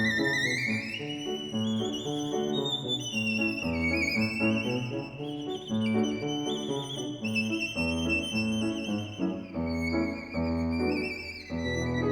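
Violin playing a high, quick melody with sliding notes and wide vibrato, over piano accompaniment with steady chords and bass notes.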